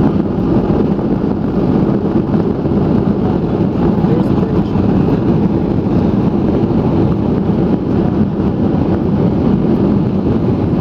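Steady low rumble of a Boeing 737-800 heard inside the passenger cabin, with no distinct thumps or changes.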